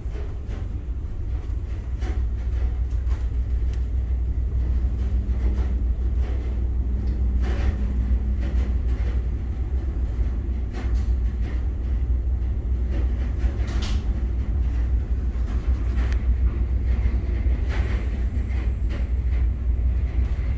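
Towboat's diesel engines running with a steady low drone, with a few sharp knocks now and then.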